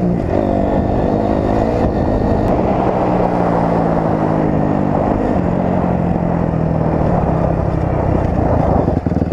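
Dirt bike engine running while riding, its pitch rising and falling with the throttle, then holding a steadier note through the middle, over a constant rough rushing noise.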